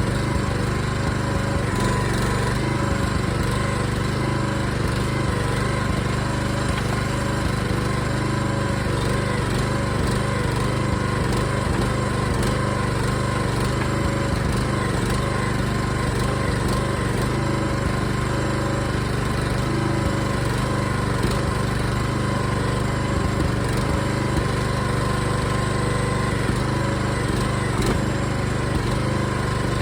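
Small engine on a backhoe running steadily at a constant speed, with no change in pitch or load.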